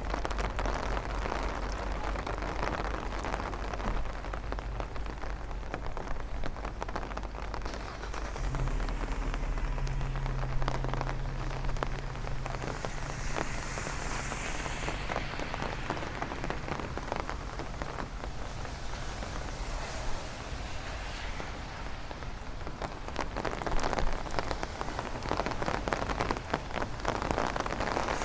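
Heavy rain falling on a city street, a dense steady hiss with countless fine drop ticks. A low steady hum joins it for a few seconds about a third of the way in.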